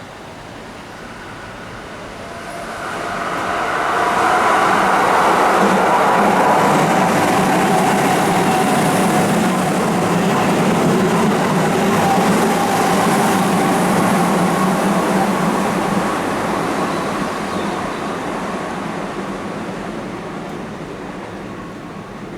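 A Keihan electric train runs through an elevated station on a curve. Its rumble builds over a couple of seconds and stays loud with a steady whine for about twelve seconds, then fades away.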